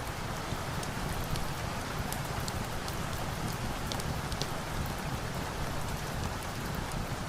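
Steady rain falling, with scattered faint sharp ticks.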